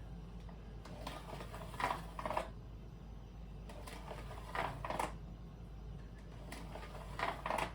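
Measuring and marking tools handled on a sub-floor panel: three pairs of short scratchy sounds over a low steady hum.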